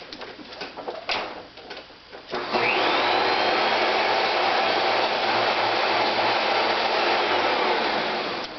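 Kenmore Progressive canister vacuum cleaner switched on after a few handling clicks, its motor spinning up with a rising whine and then running steadily. It is switched off near the end and begins to wind down. This is a test run after the handle and wand connectors were replaced.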